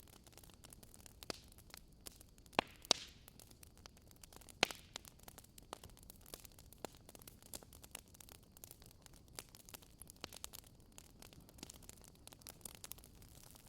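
Wood fire crackling in a fireplace: irregular sharp pops and snaps over a faint steady hiss, with the loudest few pops about three to five seconds in.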